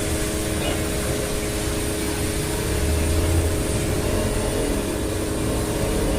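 Suzuki pressure washer running steadily with a motor hum, its jet spraying with a constant hiss while rinsing.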